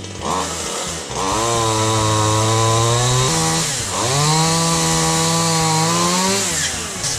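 Chainsaw engine revved up to full speed twice, each time held for about two seconds, with a brief drop between the runs just before the four-second mark. It winds down near the end.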